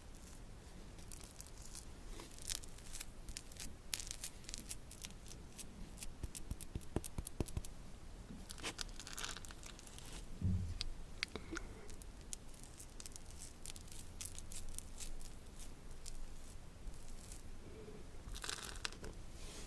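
Food packaging being crinkled and torn open, with many scattered sharp crackles and a few short rustles. There is one soft low thump about halfway through.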